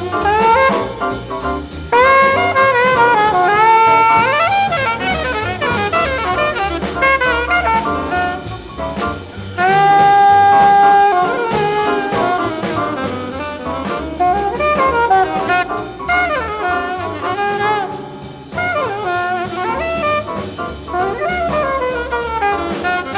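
Small bebop jazz group (alto sax, trombone, trumpet, piano, bass, drums) playing live, with one horn taking a fast solo over drums, bass and piano. The solo line moves in quick runs and holds one long note about ten seconds in.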